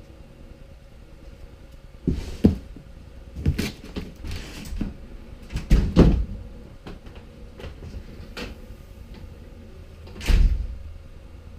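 Rummaging and handling noise while searching for scissors: a series of knocks and thuds with some rustling, the loudest about six seconds in, and one last thud near the end.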